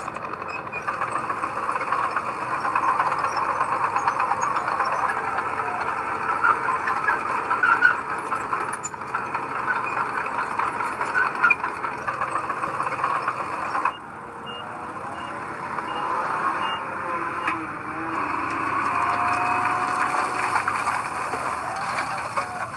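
Heavy construction machinery running steadily at a worksite. Partway through comes a row of short, evenly spaced high beeps, like a reversing alarm.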